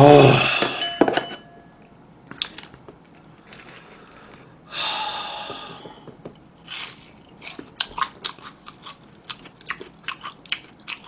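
A loud throat-clearing at the start, then from about 7 s on rapid crisp crunches of chewing crispy deep-fried breaded food: pork cutlet and fried shrimp.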